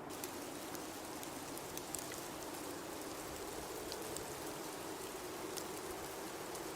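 Blizzard wind ambience: a steady low howl with a hiss that thickens right at the start, scattered with small sharp ticks.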